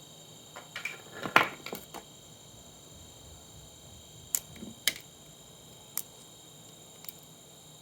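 Scattered clicks and knocks of parts and tools being handled while taking apart an old monitor: a quick cluster in the first two seconds, then a few single sharp clicks spaced about a second apart.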